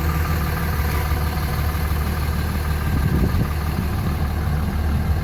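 The 5.9-litre 24-valve Cummins inline-six diesel of a 2004 Dodge Ram 3500 idling steadily with a low, even rumble.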